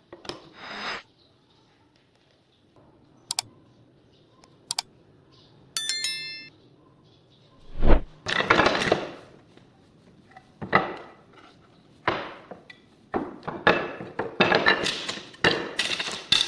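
Workshop handling sounds: a few sharp clicks, a short metallic ring about six seconds in, a heavy thunk near eight seconds, then a run of scraping and rubbing strokes.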